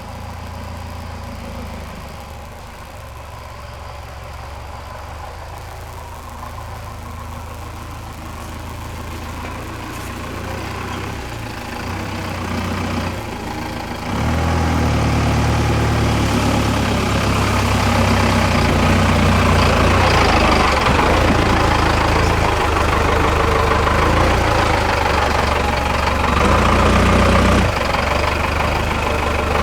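Truck's Cummins 4BT four-cylinder diesel running at low speed, getting clearly louder about halfway through as it pulls away and stays under load.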